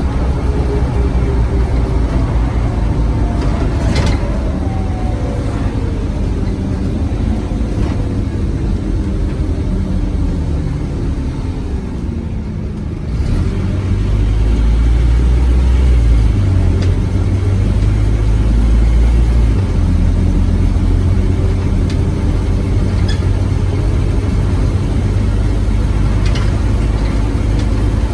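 Scania OmniCity bus's diesel engine: its note falls steadily for the first dozen seconds, then about halfway through it turns into a louder, heavy low rumble that carries on to the end.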